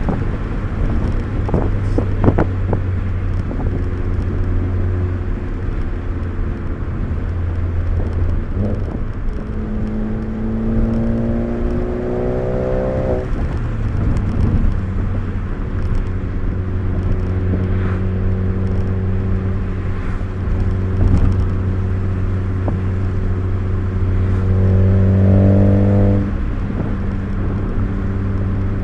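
Car engine heard from inside the cabin on a spirited drive. Its pitch climbs under acceleration about ten seconds in, falls away abruptly, holds steady for a while, then climbs again and drops off a few seconds before the end. A few sharp clicks sound in the first seconds.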